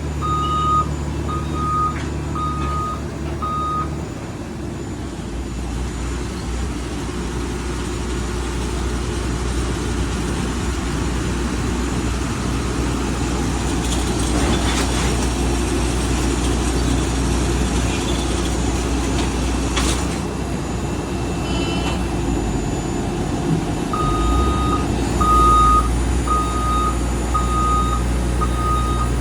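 Backup alarm of a ground-support vehicle beeping steadily over its engine's steady low drone. The beeping stops about four seconds in and starts again near the end, while the engine runs on.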